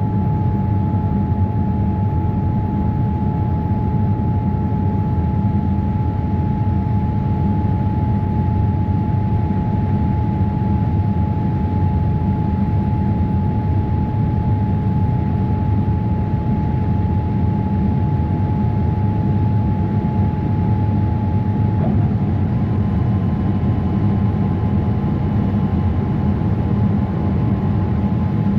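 Boeing 787-8 passenger cabin noise: a steady, loud rumble of engines and airflow with a thin whine over it. About three-quarters of the way through the whine shifts to a slightly higher pitch, with a fainter high tone joining it.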